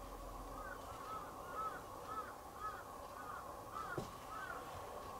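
A bird calling in a quick run of short arching calls, about two a second, over a steady background hum, with a single thump about four seconds in.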